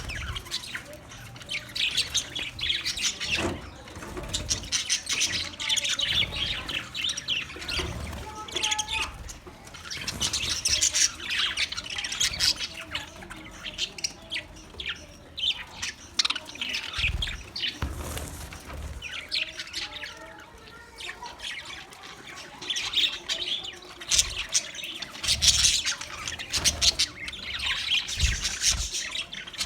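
Budgerigar chirping and warbling in rapid bouts of short high chirps, easing off now and then before starting again. A few short low thumps come through in the middle and near the end.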